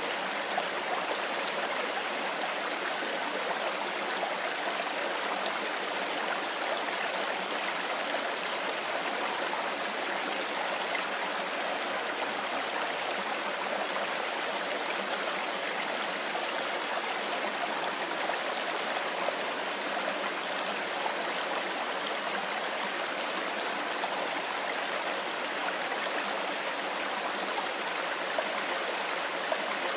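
Mountain forest river flowing: a steady, even rush of water that does not change.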